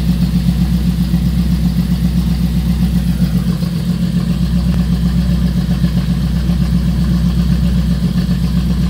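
1985 Chevy Monte Carlo SS's V8 engine idling loudly and steadily, with an even rhythmic exhaust pulse.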